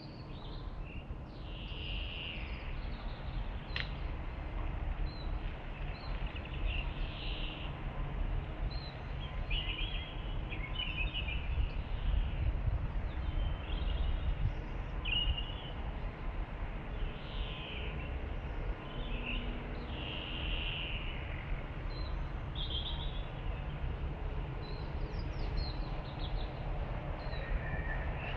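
Small birds chirping and calling in short phrases now and then, over a steady low rumble.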